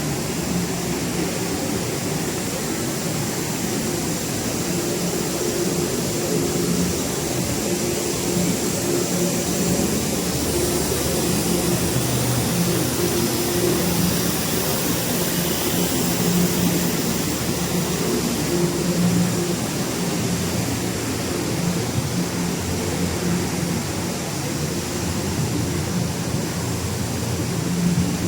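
Steady noise of heavy traffic on a multi-lane highway, with a low engine hum that swells and fades as vehicles pass.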